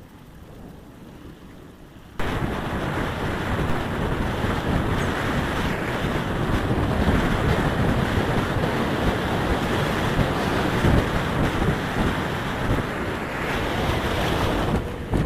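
Wind buffeting the camera microphone while riding, a loud even rush and rumble that starts suddenly about two seconds in and keeps on.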